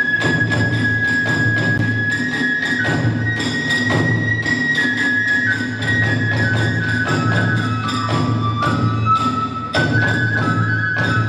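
Kagura hayashi stage music: a bamboo transverse flute holds a melody that steps slowly downward, over steady, rapid strokes of taiko drums and hand cymbals.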